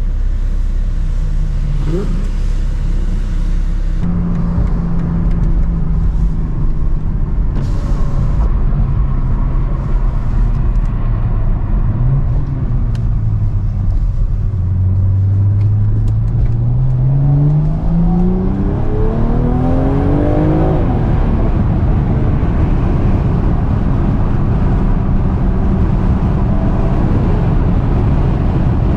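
BMW M340i's turbocharged inline-six engine, fitted with an aftermarket downpipe, running low and then accelerating, its pitch climbing steadily for about five seconds past the middle. After that it gives way to steady road and wind noise.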